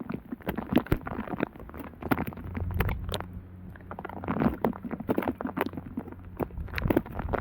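Heavy rain, its drops pattering in quick, irregular taps, some landing close on the microphone, over a low rumble.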